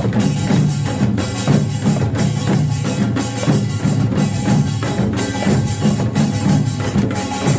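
Korean pungmul farmers' band playing: kkwaenggwari small gongs, jing, janggu hourglass drums and buk barrel drums together in a steady, dense rhythm that repeats about once a second.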